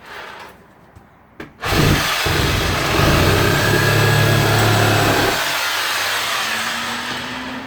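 Power tool cutting into wood: it starts up about two seconds in with a loud rasp over a low motor hum, runs hard for a few seconds, then runs lighter near the end.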